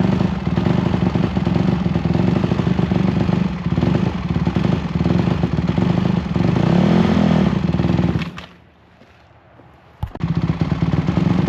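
A Honda dirt bike's engine runs and revs up and down, then cuts out abruptly about eight seconds in and starts up again about two seconds later. The cut-out fits a stall from letting the clutch out too fast.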